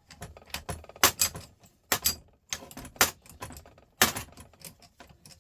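Metal parts of a dismantled Volvo truck starter motor clinking and knocking as they are worked loose with tools. Sharp strikes come about once a second, with lighter clicks between them.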